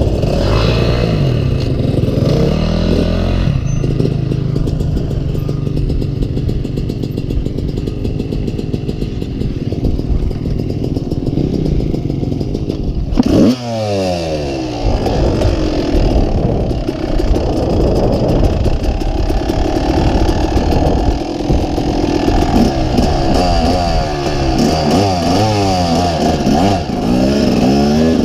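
Dirt bike engine revving up and down as it is ridden off-road. There is a sharp loud crack about halfway through, after which the engine pitch swings up and down quickly.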